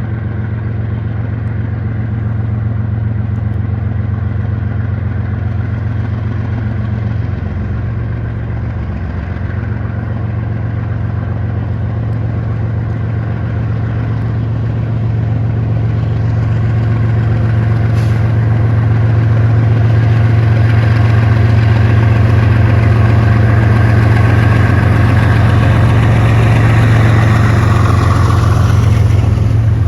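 GE diesel-electric freight locomotives working under load as they slowly pull a train out of a siding. A steady low engine drone grows louder as they come closer.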